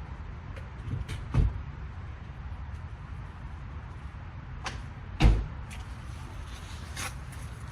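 A few knocks and clicks of tools and parts being handled during work on an ATV part, two of them heavier thumps, over a low steady hum.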